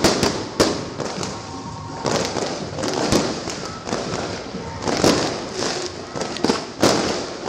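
Fireworks bursting, a sharp bang every second or so, some in quick pairs, over a steady background hiss.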